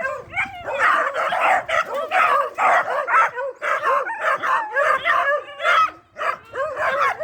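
Hound puppies baying on a rabbit's scent, a fast run of short yelping bays several times a second, with the voices overlapping.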